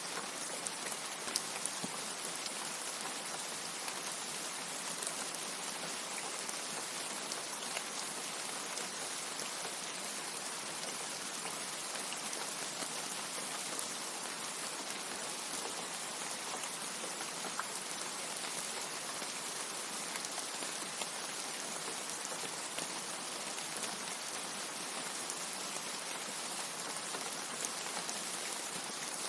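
Steady rain with scattered sharp drop ticks, an even hiss strongest in the high end and nothing deep under it.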